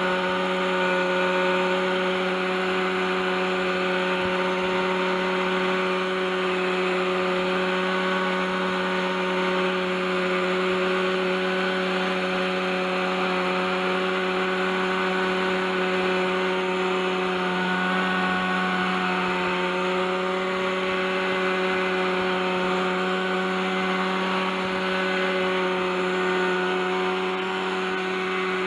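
OS 61SF two-stroke glow engine of an RC helicopter running steadily at hovering speed, holding an even pitch. The engine was freed up with oil after some thirty years without maintenance, and its bearings are rusty.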